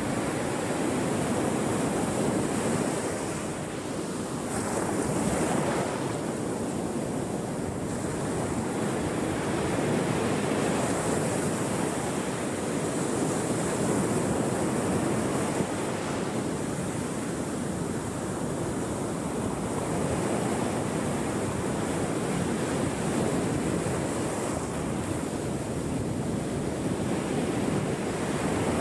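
Ocean surf: waves breaking and washing continuously, the wash rising and falling in slow swells every few seconds.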